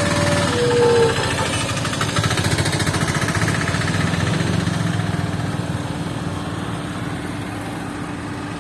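A motor vehicle's engine running with a fast, even throb that slowly fades away. Short horn toots sound in the first second or so.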